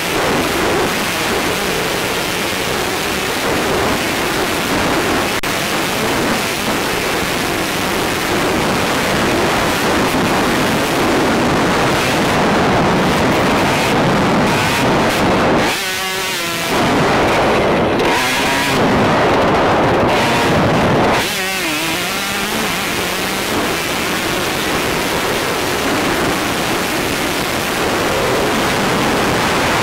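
Motocross bike engine running and revving under heavy wind noise buffeting a helmet-mounted camera. Twice near the middle the loudness dips briefly and the engine's pitch can be heard changing as the throttle is worked.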